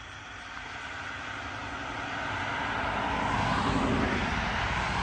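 A vehicle approaching on the road, its tyre and engine noise growing steadily louder.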